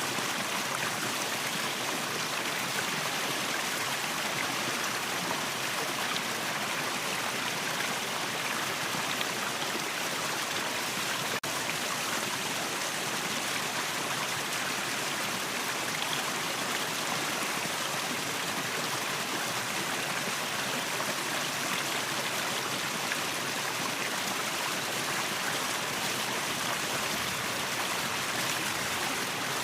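Waterfall: a steady, even rush of falling water, with no change throughout.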